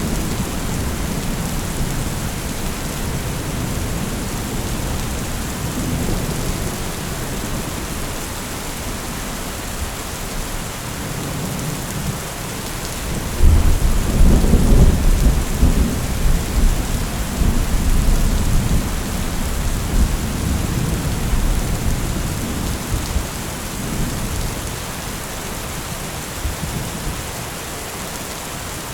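Steady rain with thunder: a low rumble that breaks in suddenly about halfway through, stays loud for several seconds, then fades back under the rain.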